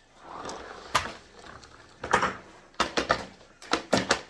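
A few sharp knocks and clunks of hard objects being handled: a single knock about a second in, then a quick cluster of them near the end.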